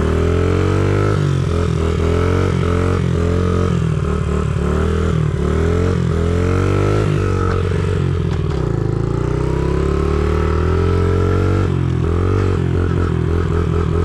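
Small 50cc dirt bike engine being ridden hard. Its pitch climbs and drops back over and over as it is revved up and shifted, dips low about two-thirds of the way in, then climbs steadily again.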